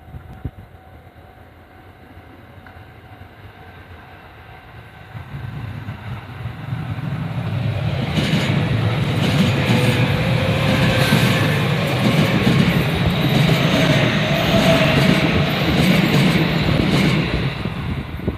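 An electric train passing along the track: it grows louder over several seconds, runs past for about ten seconds with the rhythmic clatter of its wheels over the rail joints, then starts to fade near the end.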